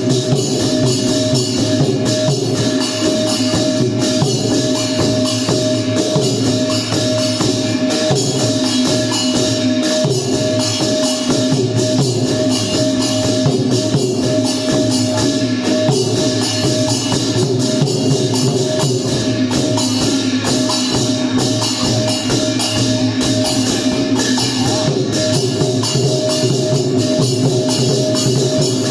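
Traditional Thai klong yao long-drum ensemble playing a continuous rhythm: long drums with small hand cymbals clashing throughout. A steady held tone runs underneath.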